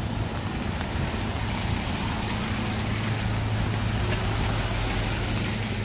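A motor vehicle's engine idling with a steady low hum, over the hiss of a wet, rainy street.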